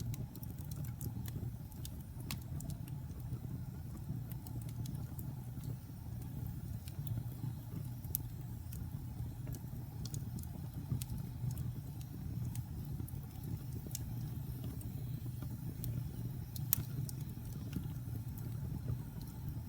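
Wood fire crackling: irregular sharp pops and snaps, a few louder ones scattered through, over a steady low rumble.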